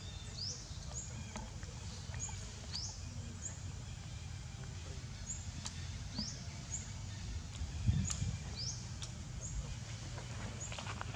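Outdoor ambience: a bird's short, high, rising chirps repeated every half second or so over a steady low rumble, with a soft thump about eight seconds in.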